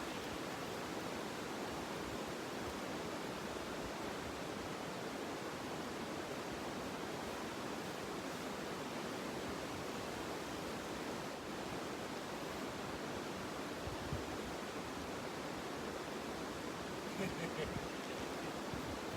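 Steady rush of a swollen mountain river, with a few faint ticks near the end.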